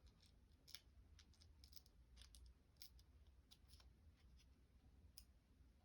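Near silence, with a few faint, sharp clicks scattered through it from paper cutouts being handled and trimmed.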